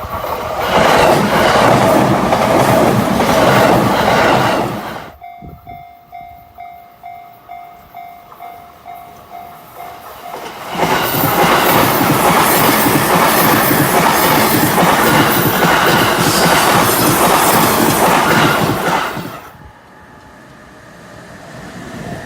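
Two Chuo Line trains pass a level crossing one after the other, wheels clattering on the rails. In the gap between them the crossing's warning bell clangs steadily about twice a second.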